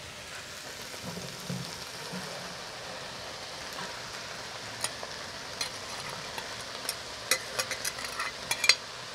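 Chopped vegetables dropping into a hot clay cazuela of browning ground beef and oil, sizzling, with a few soft thuds as they land. From about halfway on, a spoon scrapes and knocks against the bowl to clear out the rest, sharp clicks that come more often near the end.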